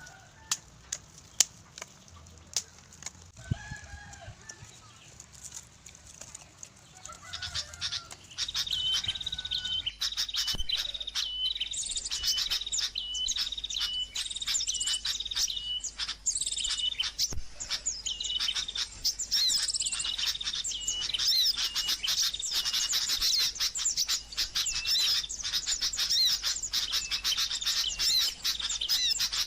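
Small birds chirping, a dense chorus of repeated high notes that starts about a third of the way in and carries on. Before it there are only a few sharp clicks and faint short calls.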